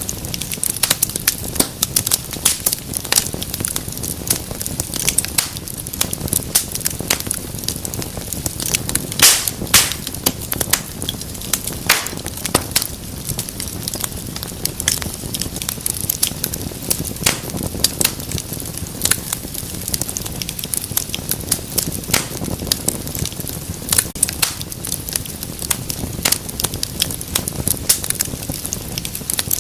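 Wood fire in a fireplace crackling steadily, dense irregular snaps and pops throughout, with louder pops about nine seconds in and again about twelve seconds in.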